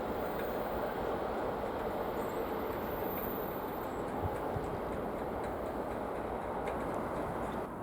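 Diesel-hauled train running, a steady noise with faint clicks, that drops suddenly near the end.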